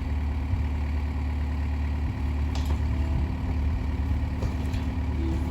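Engine idling steadily at a low, even pitch, with a few faint clicks over it.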